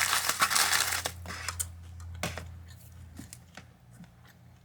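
Loud crunching from a bite of a crunchy toasted sandwich for about the first second, followed by fainter, scattered crunchy chewing clicks that die away.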